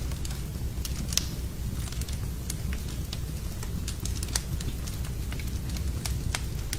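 Wood fire burning in a fireplace: irregular sharp crackles and pops over a steady low rumble, with louder pops about a second in and again about four seconds in.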